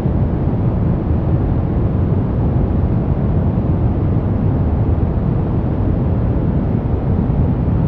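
Steady brown noise: an even, deep rumbling hiss, strongest in the bass and fading toward the treble, with no changes.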